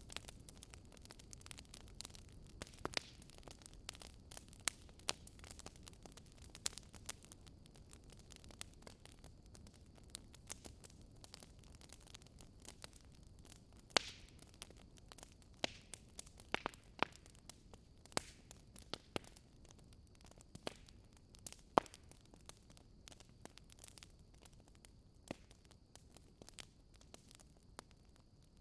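Wood fire burning in a fireplace: irregular sharp crackles and pops over a soft low rumble and hiss.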